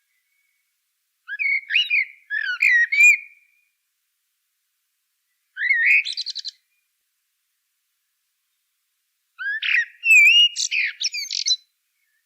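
A songbird singing three short phrases of quick, varied warbling and chirping notes, each one to two seconds long, with silence between them.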